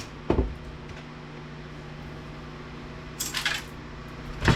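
Small metal parts and a sheet-steel chassis being handled during disassembly: a knock near the start, a brief metallic rattle about three seconds in, and a sharp clack at the end.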